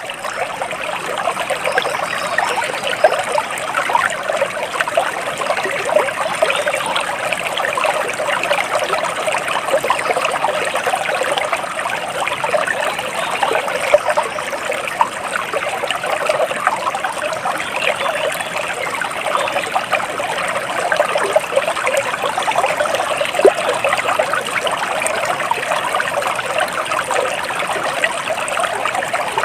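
Stream water flowing and trickling steadily, a continuous babble of small splashes.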